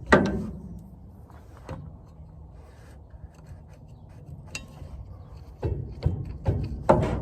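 Metal clanking and scraping as a pry bar is worked against a truck's driveline to pop it off. A loud ringing clank comes right at the start, and a quick run of knocks comes near the end.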